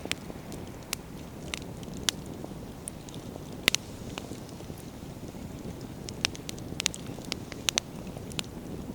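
Wood campfire burning: the logs crackle and pop with about a dozen sharp snaps over a steady low rush, the loudest snap about four seconds in and a quicker run of pops near the end.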